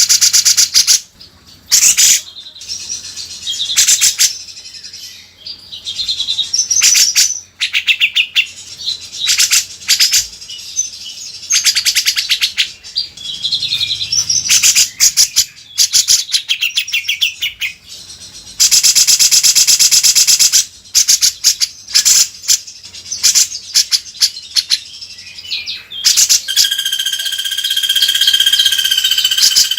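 Cucak jenggot (grey-cheeked bulbul) singing loudly and continuously, in runs of fast rattling, chattering notes broken by short pauses. Near the end comes a held, steady whistle.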